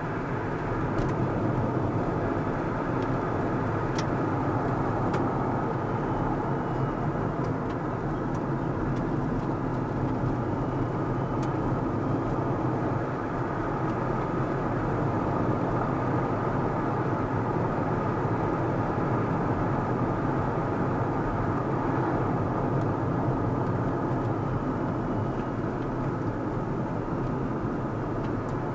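A car driving at steady speed: an even rumble of engine and tyres on the road with no change in pace, and a few faint ticks.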